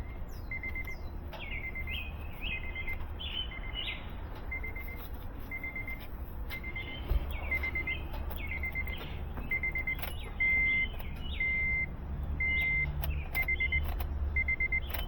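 A car's electronic warning chime beeping about once a second, a few beeps longer and louder near the end, with birds chirping in the background.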